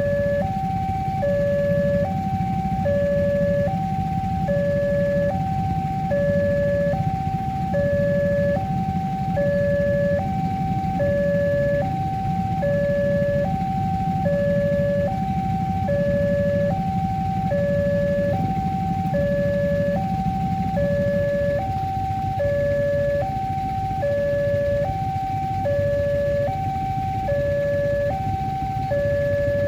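Railway level-crossing warning alarm sounding: an electronic two-tone signal alternating between a lower and a higher tone, about one full cycle a second, repeating steadily, the warning that a train is approaching and the barriers are down. A low rumble beneath it eases off about two-thirds of the way through.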